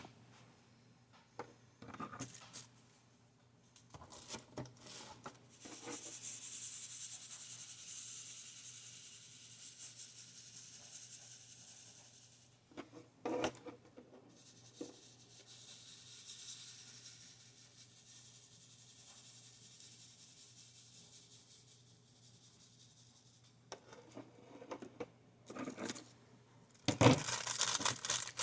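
Quiet handling of small craft supplies: soft rubbing and scraping, with a few sharp clicks and knocks, the loudest about halfway through and a cluster near the end.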